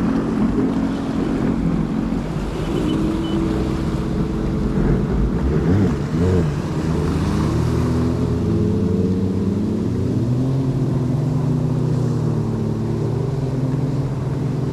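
Several jet ski engines idling at low speed on the water, their pitch wandering up and down in the first half, then running steadier.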